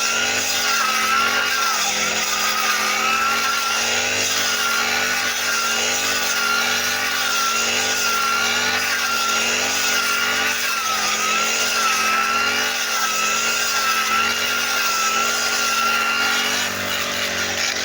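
Small brush cutter (grass-cutting machine) engine running at high speed, its pitch wavering slightly, then easing off about a second before the end.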